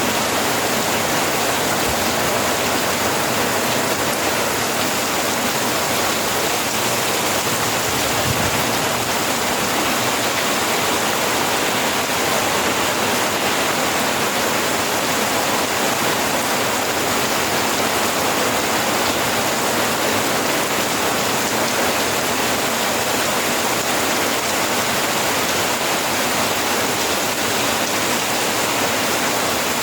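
Steady rain falling, an even hiss with no pauses or distinct drops.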